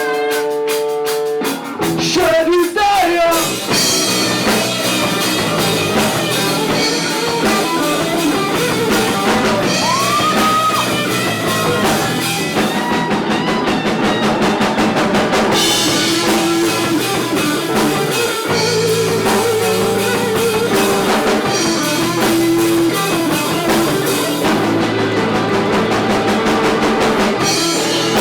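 Rock music instrumental with electric guitar and drum kit playing a steady beat.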